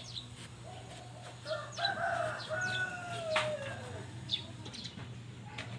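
A bird's long crowing call of about two and a half seconds that falls in pitch at the end, with short high chirps from small birds around it and a steady low hum underneath.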